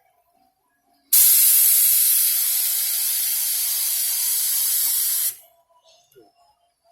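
Air-fed paint spray gun with a small tip spraying thick primer: a loud, steady hiss that starts abruptly about a second in and cuts off after about four seconds.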